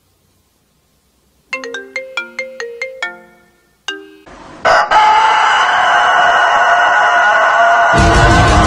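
A short tinkling melody of about ten bell-like notes, like a phone ringtone, then a loud, sustained rooster crow from about four and a half seconds in.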